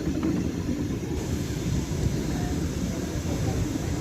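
Steady low rumble of a train running on the heritage line, with faint voices in the background.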